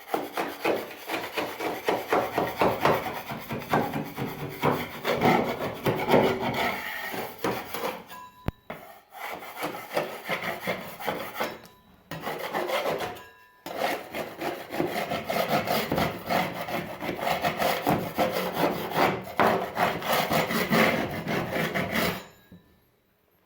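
Paint being scraped off with a hand scraper in rapid, rasping strokes. The scraping pauses briefly three times and stops shortly before the end.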